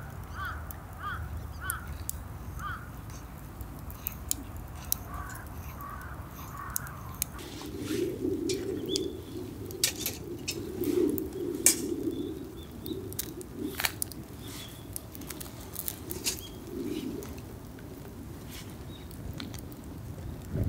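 Wild birds calling: a run of short, evenly repeated notes in the first few seconds, then lower calls through the middle, with scattered sharp clicks.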